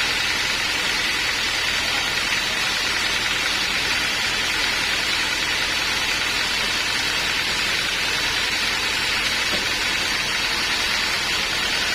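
Homemade band sawmill running steadily, a constant machine noise with a hissing edge and a low hum beneath, with no break or change.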